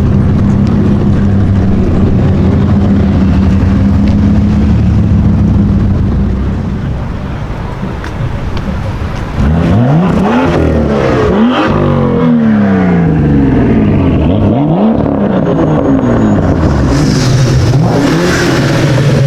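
A high-performance car engine running with a steady note at first. About nine seconds in, it is suddenly joined by repeated quick revs, the pitch sweeping sharply up and down again and again.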